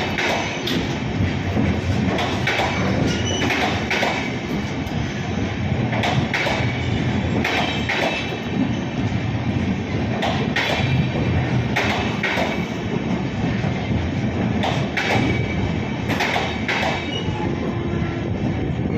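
Cargo train rolling through the station as it departs: a steady rumble of the wagons, with irregular clacks of wheels over rail joints and brief faint wheel squeals.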